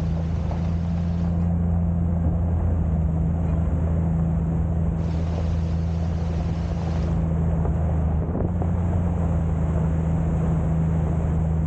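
Jeep Cherokee XJ driving on a rough mountain road: a steady low engine drone with road noise.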